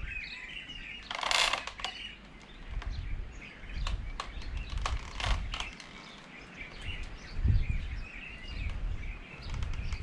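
Birds chirping in the background, with scattered light clicks and knocks, a short hiss about a second in and a low thud near the end.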